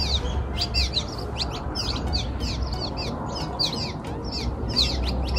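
Birds chirping busily: many short, quickly falling chirps, several a second, overlapping one another, over a low steady rumble.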